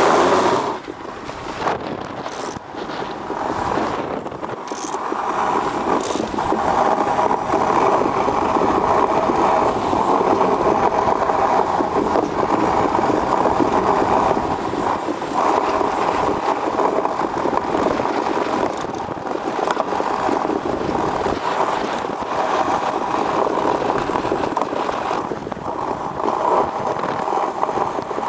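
Homebuilt aluminium iceboat's steel runners scraping across lake ice at speed: a continuous loud rushing, hissing drone with a faint hum in it, and a few short sharp ticks in the first several seconds.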